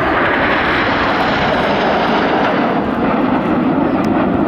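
Jet noise from the Red Arrows' BAE Hawk T1 trainers flying past in formation: a loud, steady rushing whose pitch slowly falls.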